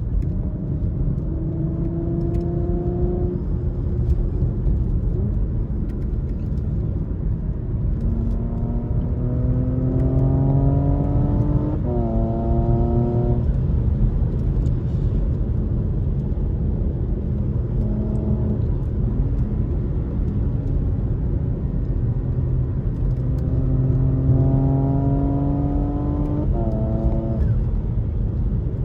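Porsche Macan GTS twin-turbo V6 accelerating hard twice, its engine note climbing in pitch with a quick gearshift partway through each pull. Between the pulls it cruises over a steady low rumble of road and wind noise.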